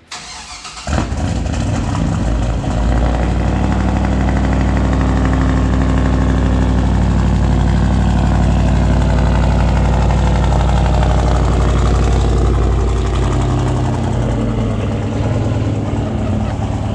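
Car engine with its muffler removed (muffler delete) cranked over briefly and firing up about a second in, then running at a raised idle with a loud, unmuffled exhaust. The idle drops and settles lower near the end.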